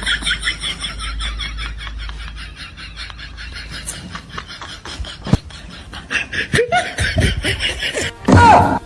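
Snickering laughter in quick, evenly spaced bursts, with a louder pitched sound coming in near the end.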